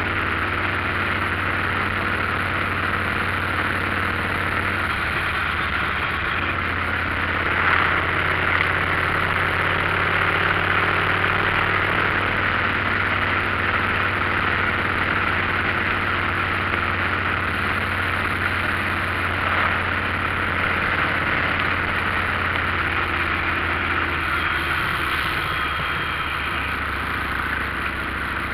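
Motorcycle engine running at a steady speed while riding, with steady wind and road noise over it.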